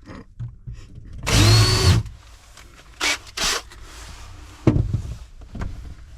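A power drill runs once for under a second, its motor pitch rising and then holding. A few light knocks and clicks of tool handling follow.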